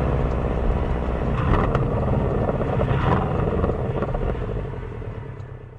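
Porsche 718 Cayman's turbocharged flat-four, with the stock exhaust, running steadily at low revs, heard from behind the rear bumper mixed with cabin sound. The sound fades out near the end.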